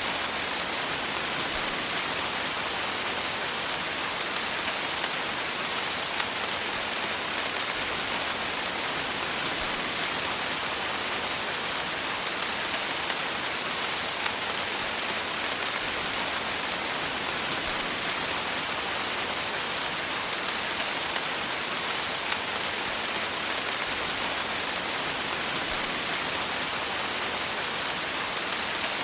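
Steady rain falling on a surface, a dense even hiss of countless small drop patters without pause.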